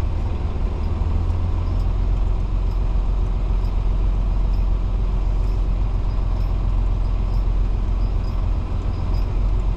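Semi truck's diesel engine running steadily with a heavy low rumble, with a faint high tick about once a second.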